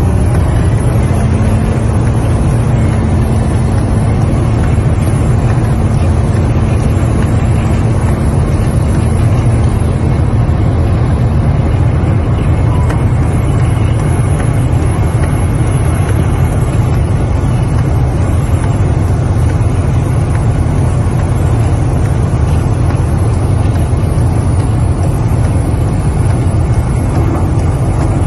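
A vehicle running: a loud, steady, unbroken low rumble.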